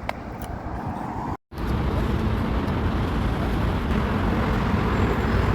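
Steady low rumble of a moving road vehicle, with road noise. It cuts out completely for a moment about a second and a half in, then comes back louder and steady.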